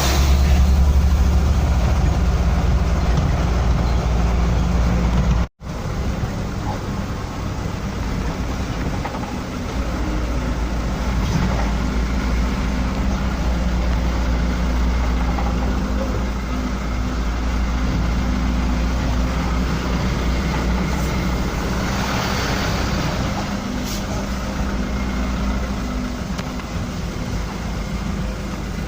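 Truck engine running steadily with road noise, with one brief cut to silence about five seconds in.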